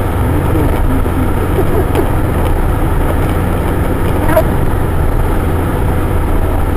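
Steady drone of a car's engine and tyres heard from inside the cabin while driving.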